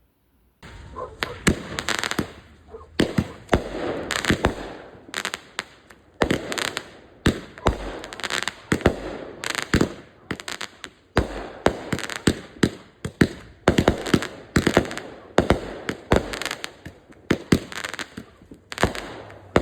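Several consumer firework cakes, fused together on quick fuse, fire in rapid succession. They start suddenly about half a second in, after near silence, then keep up a long run of sharp shot reports, at times in quick clusters, with hissing and crackling between the bangs.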